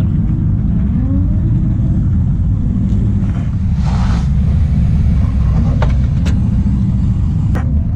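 Steady low rumble of car engines around the pits, with one engine's pitch rising about a second in, and a few sharp clicks near the end.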